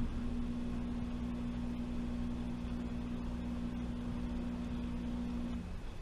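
Washing machine running with a steady motor hum and low rumble, which stops about five and a half seconds in.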